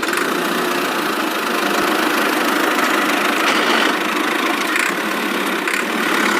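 Small motor of a DIY toy tractor running steadily, an even whirring hum.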